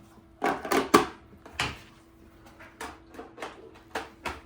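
A small, cheap robot vacuum running with a faint steady hum, with a string of hard plastic knocks and clacks as it is pushed around and bumps about on the floor. The knocks come irregularly, the loudest near the start.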